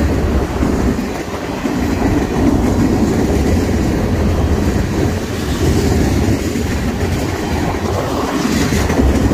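BNSF freight train of tank cars and gondolas rolling past at speed, steel wheels clacking over the rail joints in a loud, steady rumble.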